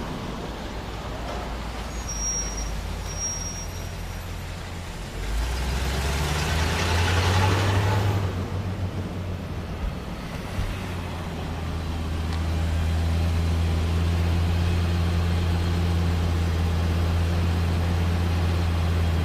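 Lexus LFA's 4.8-litre V10 engine running with a low drone that swells about five seconds in, with a rushing noise for a few seconds, then settles into a steady hum.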